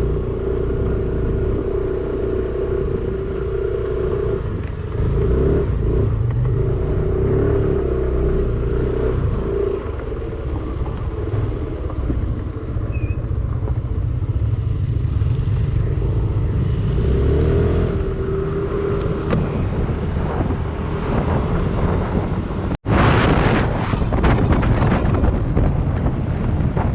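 Yamaha Aerox 155 scooter's single-cylinder engine running under way, a steady drone that rises and falls with the throttle, over a low rumble. It breaks off suddenly about 23 seconds in, and a rough rushing noise with rattles takes over.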